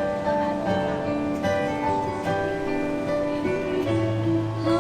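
Instrumental music led by acoustic guitar, with sustained chords changing every second or so and no singing.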